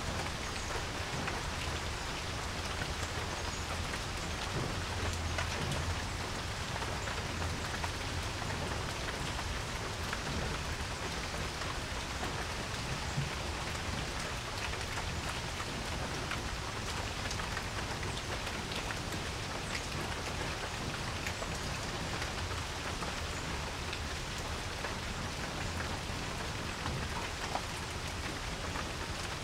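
Steady rain falling on a porch, an even hiss with scattered individual drops tapping and a low rumble underneath.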